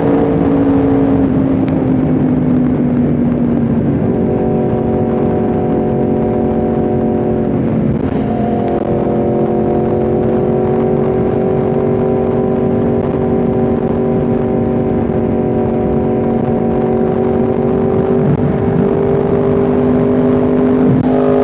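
Yamaha R1M's crossplane inline-four engine running under way at a steady cruise. Its note eases lower in the first few seconds, breaks briefly about eight seconds in, then climbs gradually near the end as the bike speeds up.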